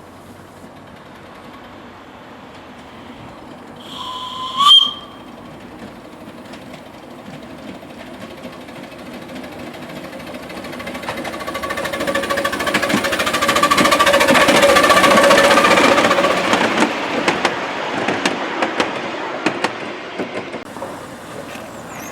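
Miniature railway locomotive giving a short, loud whistle, then running past with a fast rapid beat that builds to its loudest about two-thirds of the way in and fades away with scattered clicks and knocks.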